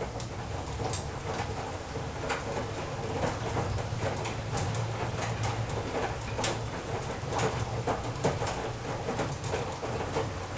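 Washing machine running with its drum turning: a low steady hum under many irregular clicks and knocks from the tumbling load, getting louder right at the start.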